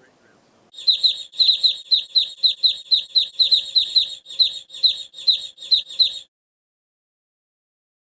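A bird chirping in a rapid series of short, high calls, about four a second, which stop abruptly after about six seconds.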